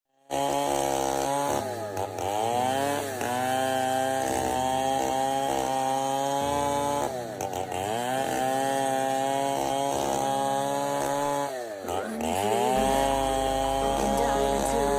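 Chainsaw running at high revs while cutting into a large log. Its pitch dips and recovers three times, about two, seven and twelve seconds in.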